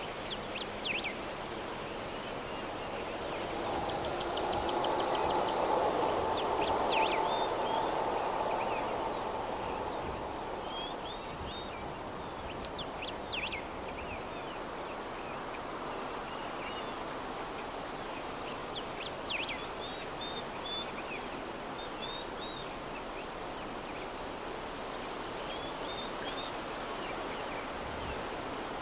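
Soft, steady outdoor breeze with small birds chirping in short, scattered calls. About four seconds in, the sound swells louder with a faint hum, then settles back by around ten seconds.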